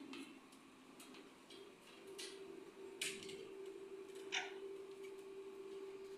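A few short, sharp clicks and brief scratchy sounds over a faint steady hum.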